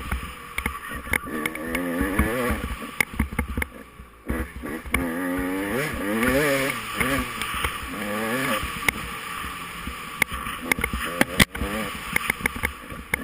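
Off-road dirt bike engine revving up and down as the throttle is worked, easing off briefly about four seconds in, with scattered sharp knocks and clacks, the loudest near the end.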